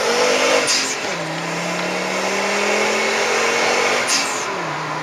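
Car engine accelerating hard through the gears, heard from inside the cabin: the pitch climbs, drops at a gear change about a second in, climbs again more slowly, and drops at another shift near the end. A short hiss comes just as each shift begins.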